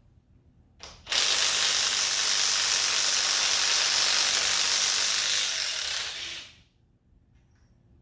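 A power ratchet running steadily for about five seconds, loosening a fastener during an engine top-end teardown, with a short click just before it starts.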